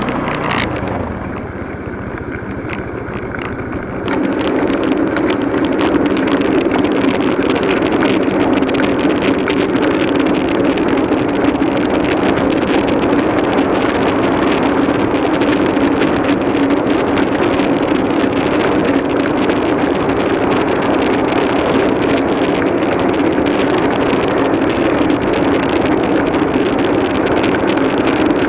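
Motorcycle running under way, a steady engine and rushing noise that steps up louder about four seconds in and then holds steady.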